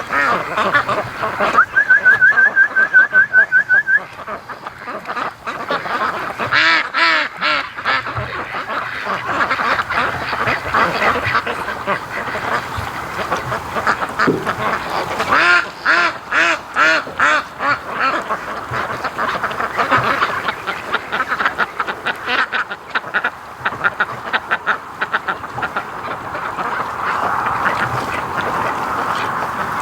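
A person whistles a quick warbling trill for about two seconds to call ducks. Then domestic ducks quack over and over in runs of calls.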